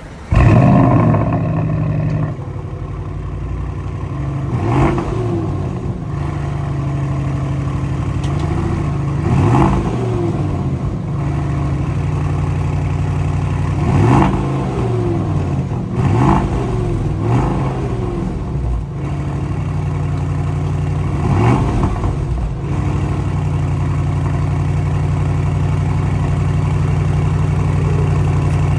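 2023 Audi RS6 Avant's twin-turbo 4.0-litre V8, breathing through a freshly fitted AWE cat-back exhaust, starting up: it fires with a loud flare just after the start and settles to a steady idle. It is then blipped about six times in short revs before idling steadily again.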